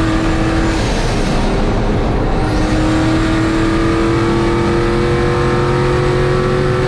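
Turbocharged engine of a 1951 Chevy race truck running hard on track: the engine note breaks up about a second in, comes back, then climbs steadily as it pulls.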